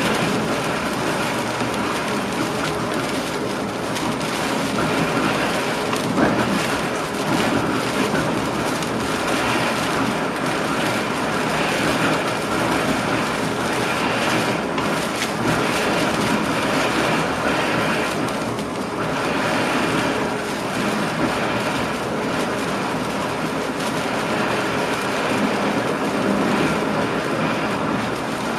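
Passenger train running along the track, heard from inside the driver's cab: a steady rumble and rush of wheels on rails. A single knock comes about six seconds in.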